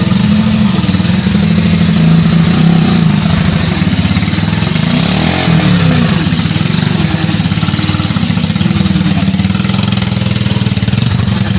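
Yamaha STX 125 motorcycle engine running steadily at idle, loud and even.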